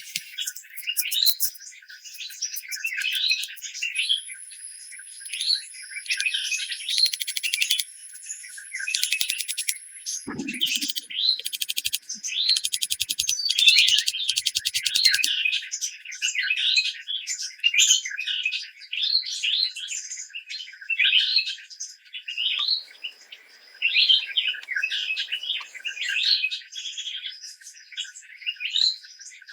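Birds chirping: one short call repeated over and over, mixed with several fast rattling trills and a high, thin, steady note for a few seconds. A soft thud sounds about ten seconds in.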